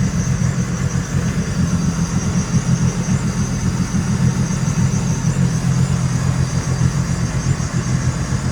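A 300-horsepower jet boat's engine running steadily at idle, a deep even rumble with a thin steady whine on top.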